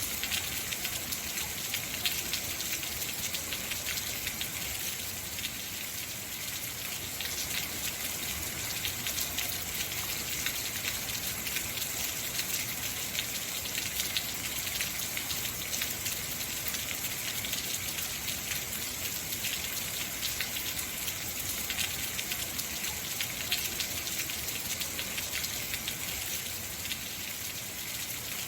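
Heavy rain falling steadily, a dense hiss of many fine drop ticks.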